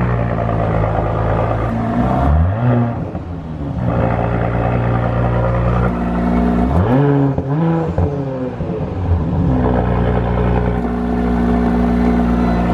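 Exhaust of a 2018 Audi SQ5's turbocharged V6 through ABT quad-tip exhaust, idling and blipped by hand: one short rev about two seconds in and a longer, higher rev around the middle, each falling back to a steady idle.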